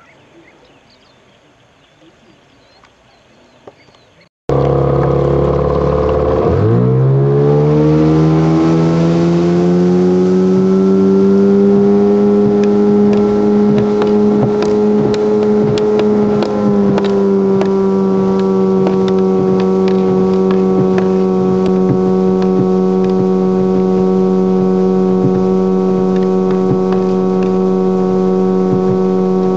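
Kit-built motorboat's engine running under way; it cuts in abruptly a few seconds in, climbs in pitch as the throttle opens, then holds a steady cruising speed, easing down slightly about halfway through.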